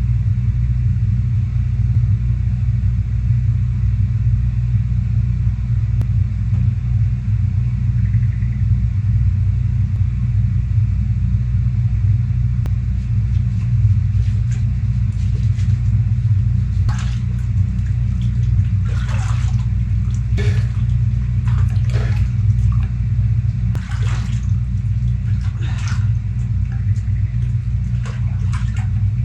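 A steady low rumble throughout, with a series of short clicks and knocks in the second half.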